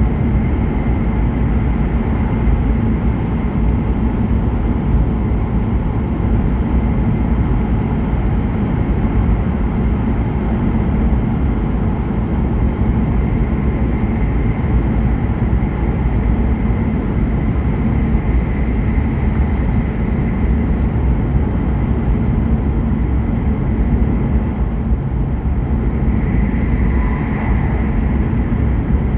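Hokuriku Shinkansen E7/W7-series train running at speed, heard from inside the passenger car: a steady, even rumble with a faint high whine that swells slightly near the end.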